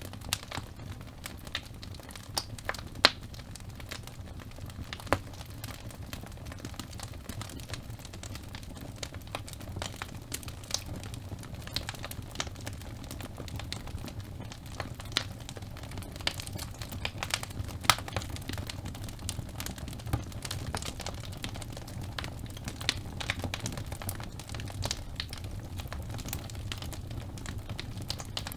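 Wood logs burning in a fireplace: irregular sharp crackles and pops over a low, steady rumble of the fire, with a louder pop about three seconds in.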